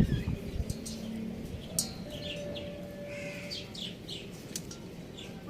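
Birds chirping in short, high calls scattered through, over a steady background, with one held whistle-like note a little past midway.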